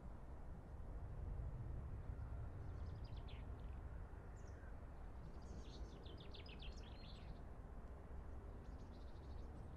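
Songbirds singing in short bursts of quick high notes, the longest phrase about halfway through, over a steady low background rumble.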